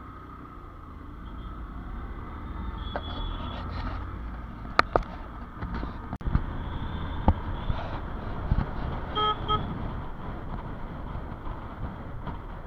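Road traffic noise with a vehicle horn giving two short toots about nine seconds in, and a few sharp clicks.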